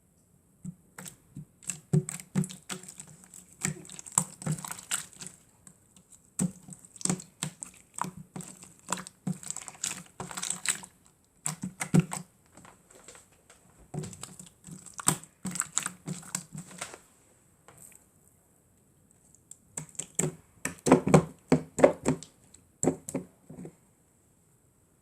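Slime being squeezed and worked by hand, making runs of quick wet clicks and pops with short pauses in between.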